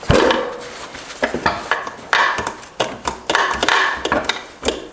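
Metal tools and transmission parts clinking, knocking and scraping while a part is worked loose in a Subaru six-speed transmission teardown. Irregular knocks, with a sharp hit at the start and short scraping stretches in between.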